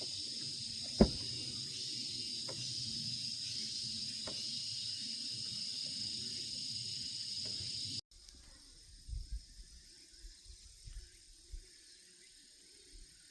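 Steady high-pitched chorus of insects, with a sharp click about a second in. After about eight seconds it cuts to a much fainter chorus with scattered low thumps.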